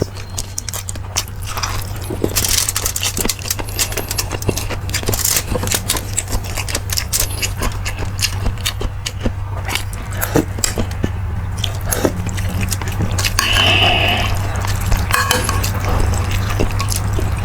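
A person eating beef marrow soup: slurping broth and chewing, with many small sharp clicks of utensils on dishes over a steady low hum.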